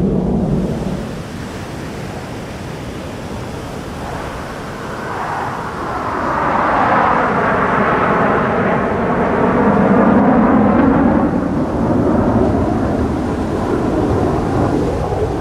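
Fighter jet flying past, its roar building to a peak with a swirling, phasing sound about seven to eleven seconds in, then easing off.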